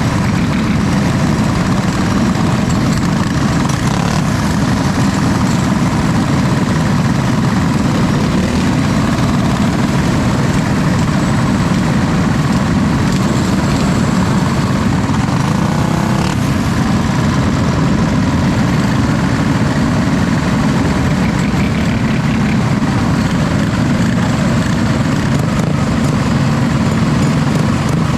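A vehicle engine running steadily at a constant pace, under a continuous noisy rush.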